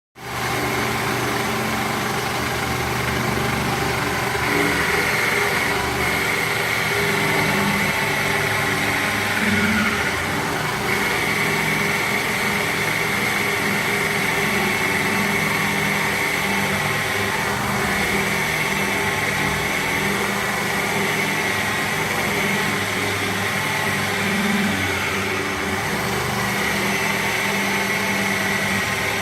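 Band saw running steadily while cutting through a 13 cm thick piece of wood, the blade and motor under heavy load and straining through the thick cut.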